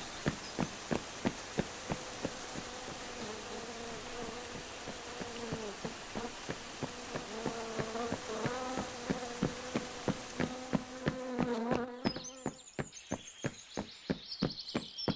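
Cartoon sound effects: bees buzzing, over even footstep taps about three a second and a steady hiss of rain. Near the end the buzz and hiss stop and high chirps come in over the taps.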